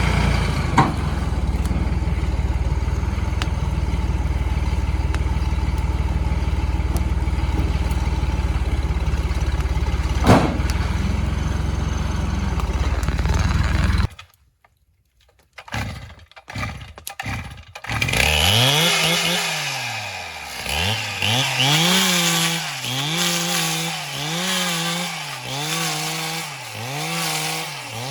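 An engine running steadily, typical of a tractor idling, cuts off about halfway through. After a few seconds of near silence with a few knocks, a two-stroke chainsaw revs up and down over and over, roughly once every second or so.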